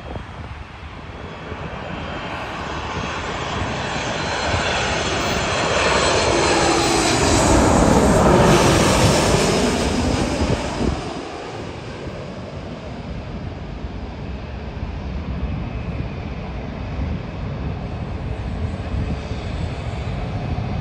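Jet airliner passing low overhead. Its engine noise swells over several seconds and peaks about eight seconds in with a falling whine, then eases to a steady rumble.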